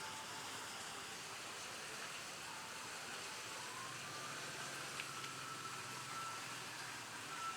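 Faint steady ambient background noise, an even hiss, with a few faint thin tones and a single click about five seconds in.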